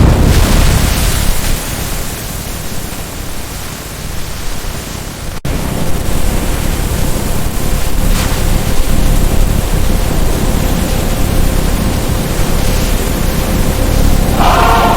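Storm sound effect: a loud, steady rush of heavy rain and floodwater, strongest in the low rumble. It breaks off for an instant about five seconds in, then carries on, with a faint steady tone underneath.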